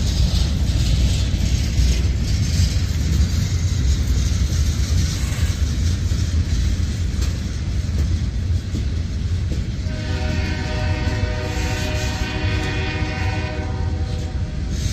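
Freight cars, tank cars and covered hoppers, rolling past with a steady low rumble of wheels on rail. About ten seconds in, a locomotive air horn starts sounding and holds a steady chord.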